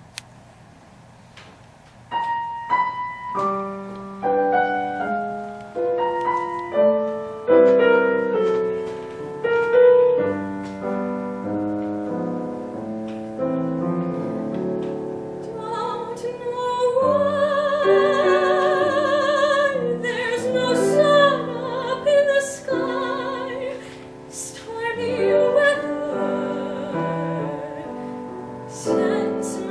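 Piano starts playing about two seconds in. About halfway through, a singer's voice comes in over it with long held notes and a wide vibrato.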